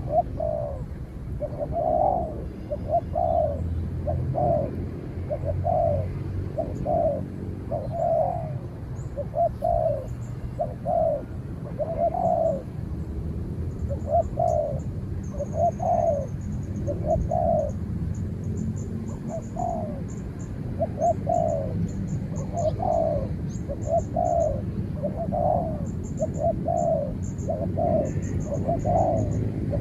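Spotted doves cooing: a long run of short, soft coo notes, one or two a second, as a caged decoy dove and a wild dove call against each other. Faint, quick high chirping sits above the coos.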